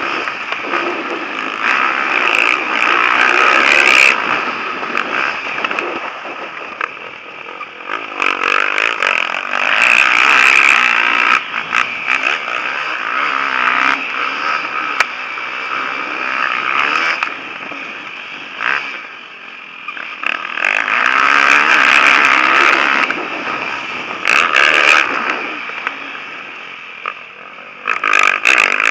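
Motocross bikes racing, their engines revving up and down in repeated loud surges every few seconds as riders accelerate and pass.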